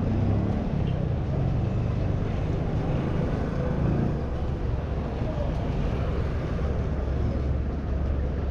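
Steady city-street noise in heavy rain: a continuous rush of rain mixed with passing vehicle traffic and a low engine rumble.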